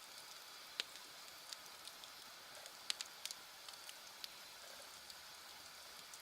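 Wood campfire burning: irregular sharp crackles and pops over a soft steady hiss, the loudest snaps about a second in and about three seconds in.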